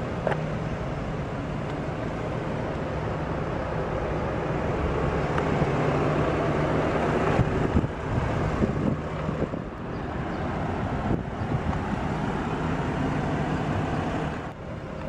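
Steady outdoor vehicle noise: a car engine running with a low steady hum amid road traffic, growing louder through the middle and easing near the end.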